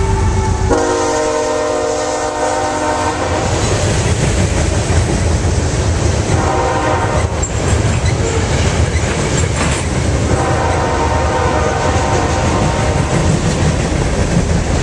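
Freight train cars rumbling and clacking past close by, with the locomotive horn sounding three blasts over it: a long one about a second in, a short one around six seconds, and another long one from about ten seconds.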